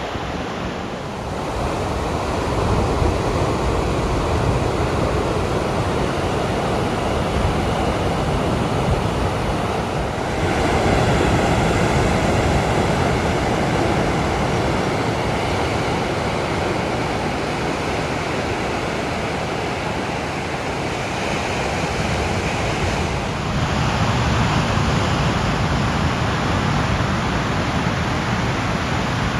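Atlantic surf breaking and washing over a rocky volcanic shore: a continuous rushing of waves. Its character shifts abruptly about ten seconds in and again about six seconds before the end.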